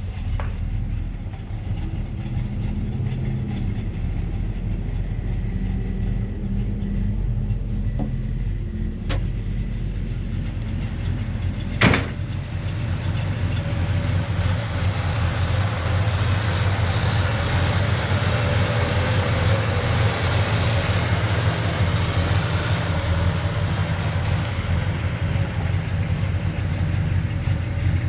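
1958 GMC 100 restomod's engine running steadily. A sharp click comes about twelve seconds in, after which a louder, steady rush of road noise joins the engine as the truck drives.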